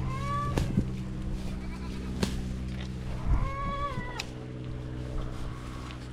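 Two bleats from the goat and sheep herd, one right at the start and one about three and a half seconds in, each about half a second long, over a steady low hum.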